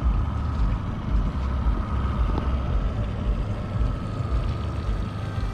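Boat motor running steadily at trolling speed, with wind rumbling unevenly on the microphone.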